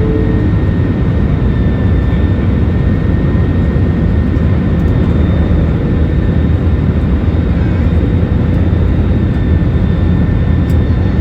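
Passenger airliner's engine and airflow noise, a steady loud rumble with a faint steady whine over it.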